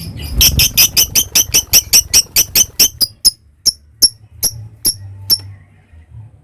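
Lovebird calling a rapid series of sharp, high-pitched chirps, about five a second at first, then slowing and breaking off a little after five seconds.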